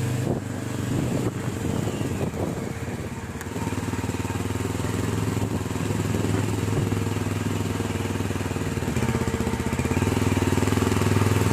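Motorcycle engine running steadily while riding, with a low even hum that grows a little louder near the end.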